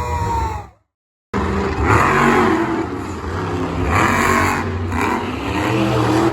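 Monster truck engine revving hard in repeated bursts, the pitch climbing and falling with each push of the throttle. The sound cuts out completely for about half a second near one second in.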